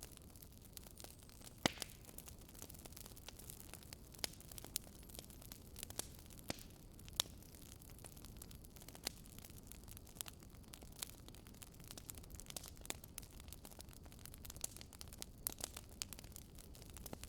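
Campfire burning, with wood crackling and popping in irregular sharp snaps over a low rumble of flame.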